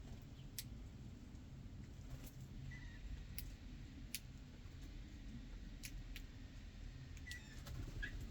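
Birds feeding on the ground: scattered sharp clicks and a few short high chirps over a low steady rumble.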